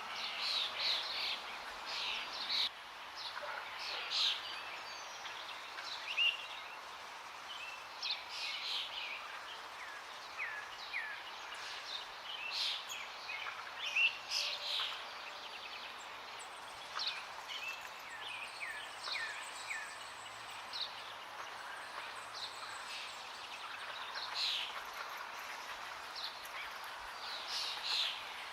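Several songbirds chirping and calling in short, scattered phrases, some as quick falling notes, over a steady rush of flowing water.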